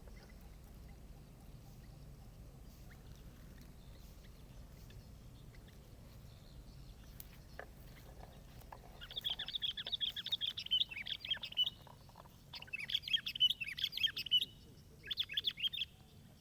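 A songbird singing in rapid chirping phrases, three bursts with short breaks, starting a little past halfway.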